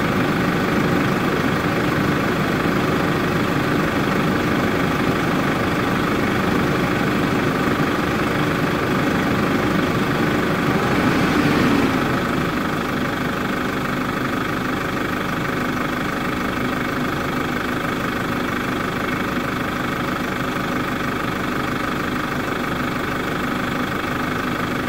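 2012 Holden Cruze's four-cylinder turbo diesel idling steadily, kept running for the automatic transmission fluid level check. The sound gets slightly quieter about halfway through.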